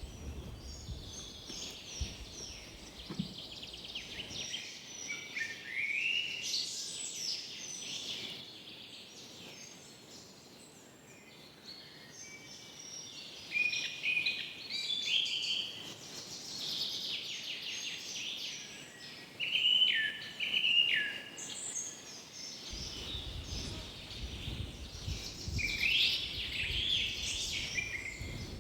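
Several small birds chirping and trilling in quick, overlapping phrases, with a low rumble in the background near the start and again near the end.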